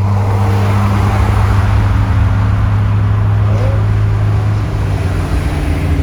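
Car engine running at a steady cruise with road noise, heard while driving along.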